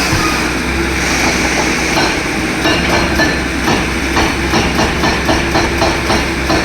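Heavy machinery engine running steadily with a rhythmic metallic clatter, about three knocks a second, setting in a couple of seconds in.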